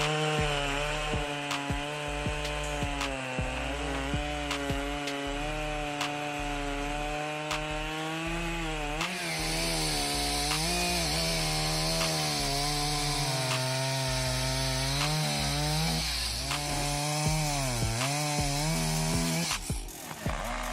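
Two-stroke chainsaw running at high revs and cutting wood. Its engine note sags repeatedly under load in the cut and picks back up, and the sound cuts off abruptly near the end.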